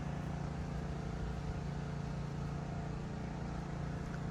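A motor running steadily with a low, even hum that holds the same pitch throughout.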